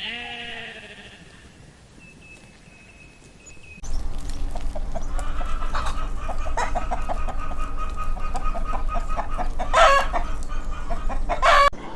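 Chickens clucking in a busy, rapid chatter that starts abruptly about four seconds in, with two louder calls standing out near the end. It is preceded by the fading end of a falling animal call and a quiet stretch.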